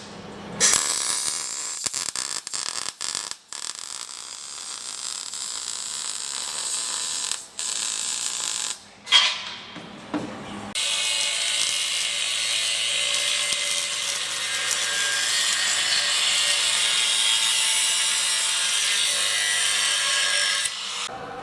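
Welding arc crackling and sizzling as an exhaust pipe is welded. It comes in several short stop-start beads with a few sharp clicks early on, then one steady bead of about ten seconds that stops just before the end.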